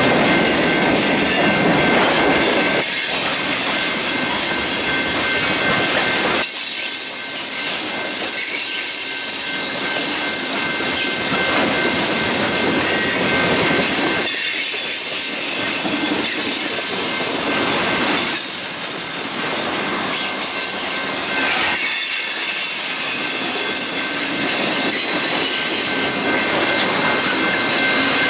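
Freight cars of a passing CSX manifest train, boxcars and tank cars, rolling by at close range: steel wheels on the rails make a steady rolling noise, with thin steady high-pitched tones running over it.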